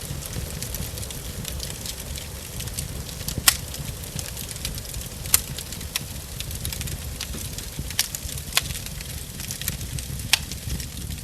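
Wood burning in a fireplace, crackling steadily with a few louder pops from the logs, over a steady hiss of rain and a low rumble.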